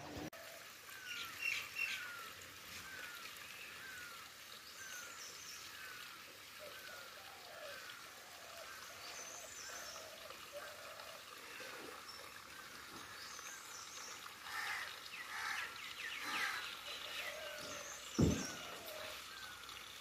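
Birds calling: one bird repeats a short chirp over and over, a little more than once a second, while other birds give higher and lower calls. A single knock sounds near the end.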